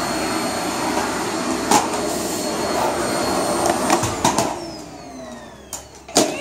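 Vacuum cleaner running steadily with a motor whine, then switched off about four seconds in, its whine falling as the motor winds down. A few sharp knocks come in between.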